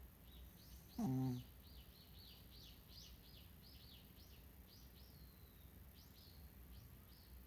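A bird chirping: a long run of short, high, downward-sweeping notes, three or four a second. One brief, much louder low grunt comes about a second in.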